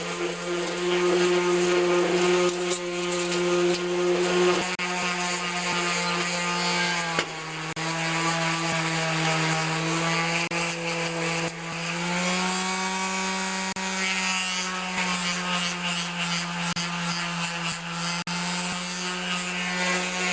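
Power sander with 220-grit sandpaper running steadily on a painted steel mower deck, feathering out the old paint edges. The motor's pitch sags briefly about seven seconds in and rises a little about twelve seconds in.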